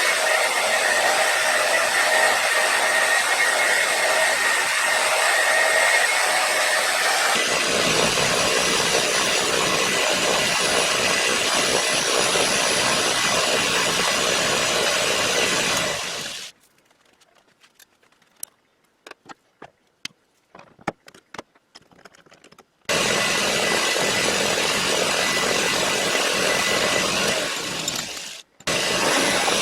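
Shop power tools running as metal stock is cut and machined, a steady loud noise. About halfway through it cuts off abruptly to a quiet stretch of light clicks and taps, then the machine noise starts again.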